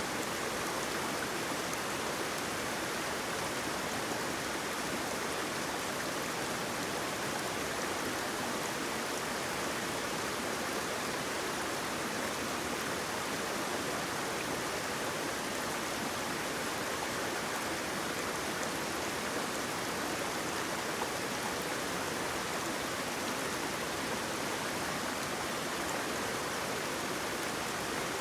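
Flowing water, a stream or small waterfall, rushing with a steady, even hiss.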